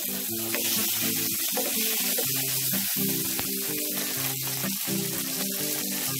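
Pork steaks and garlic sizzling steadily in hot oil in a nonstick frying pan, with background music of held notes that change every half second or so.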